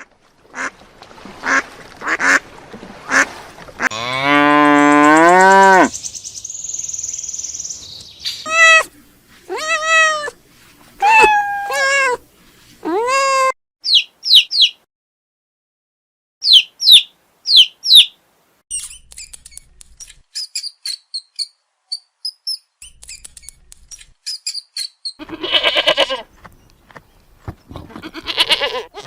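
A string of different animal calls, one after another. Short sharp calls come first, then a long, loud, low call that rises in pitch, then five drawn-out arching cries. After those come quick high chirps, faint twittering, and a rough, grunting call near the end.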